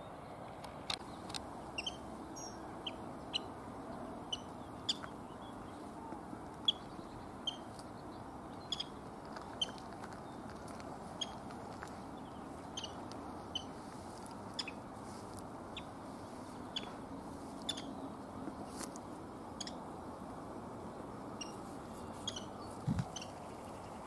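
A small bird giving short, sharp call notes over and over, irregularly, about one or two a second, over a steady low background rumble. A brief low thump near the end.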